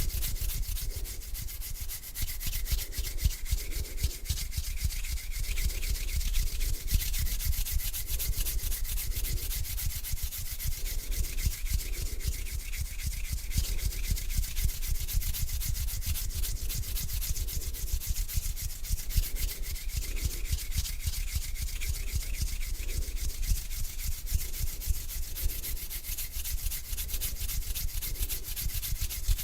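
Bare hands rubbing together slowly and close to the microphone, a continuous dry swishing that swells in an even back-and-forth rhythm about once a second.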